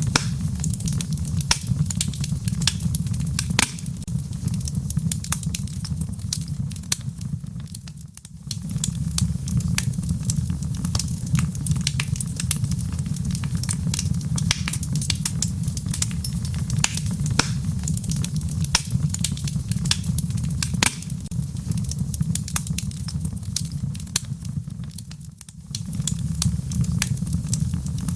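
Wood fire crackling in a fireplace: a steady low rumble with frequent sharp pops and snaps. It dips quieter briefly twice.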